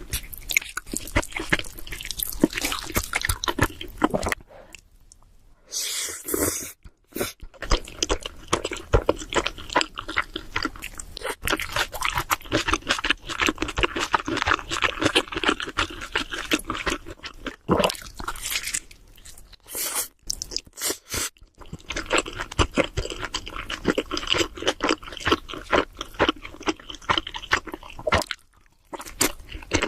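Close-miked chewing and crunching of cheese seafood pizza: wet mouth sounds and crisp crust crunches, broken by short pauses about four seconds in and near the end.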